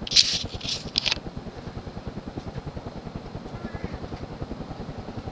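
Sears (Emerson-built) plastic-bladed ceiling fan: the pull chain rattles through a few clicks in the first second as the fan is switched to high, then the blades give a steady, evenly pulsing whoosh as they beat the air, with a slight running moan from the motor.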